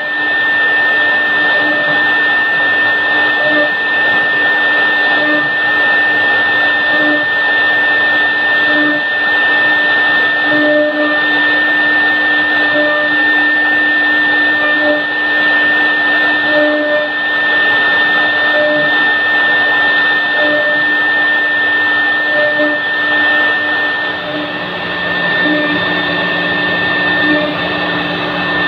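Three-head CNC wood router running, its spindles carving a wooden door with a steady high whine over a lower hum that swells slightly about every two seconds.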